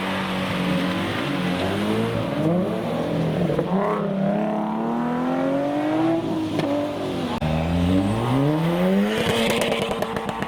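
Car engine accelerating hard away from a junction, its pitch climbing and dropping back several times as it shifts up through the gears, with tyre noise on the wet road.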